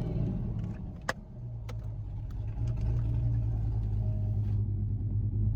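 Chevrolet Corvette C8's mid-mounted V8 idling steadily, heard from inside the cabin, with a single sharp click about a second in.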